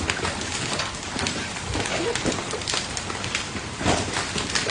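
Hailstones and rain pelting down on hard surfaces: a steady hiss of rain broken by many irregular sharp hits of hail.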